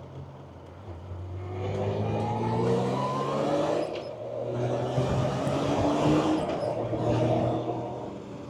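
1993 Honda Goldwing's flat-six engine accelerating, its pitch rising through the gears with a shift about halfway through, as wind noise on the microphone builds with speed.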